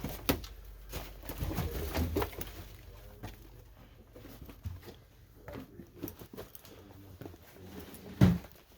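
Footsteps of a person walking through a house, with scattered knocks and rustles and one louder thump near the end.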